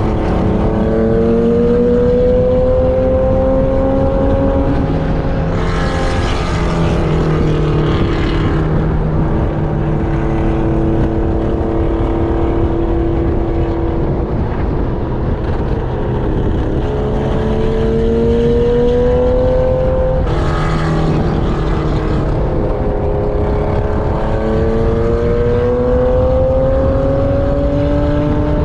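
Track-day vehicle's engine heard onboard at speed. Its pitch climbs steadily under acceleration three times, dropping in between, with bursts of rushing noise about six seconds in and again about twenty seconds in.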